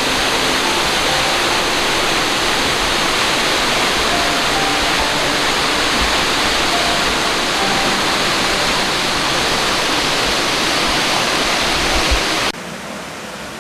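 Waterfall: a dense, steady rush of falling water. Near the end it suddenly drops to a lower level.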